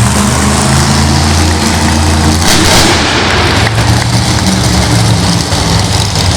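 Monster truck engine running, a loud low steady drone whose pitch shifts a little. About two and a half seconds in comes a short loud rushing burst of noise.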